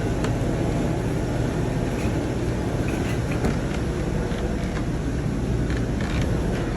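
Steady low mechanical hum and rumble with a few faint light clicks.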